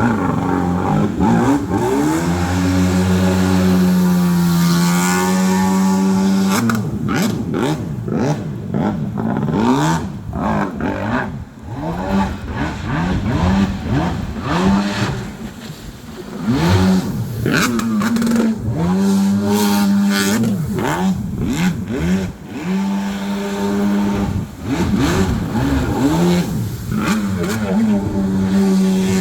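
Small engine of a mini jet boat running, its revs rising and falling again and again, held high and steady for a few seconds at a time with brief drops back toward idle.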